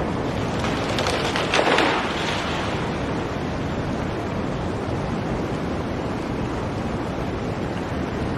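Steady blizzard wind noise, with a brief louder surge about one to two seconds in.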